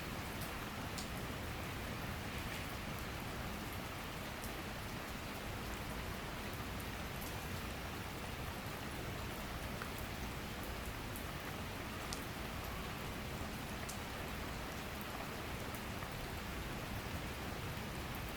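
Steady summer rain shower falling, a constant hiss with scattered sharp drip ticks of individual drops on surfaces.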